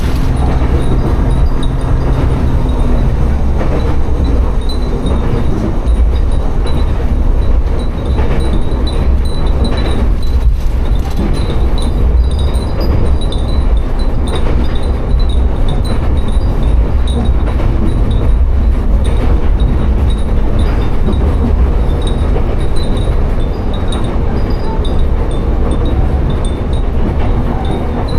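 Tsugaru Railway diesel railcar running, heard on board as a steady loud low rumble and drone. Glass wind chimes (fūrin) hung in the car tinkle with small, irregular high rings throughout.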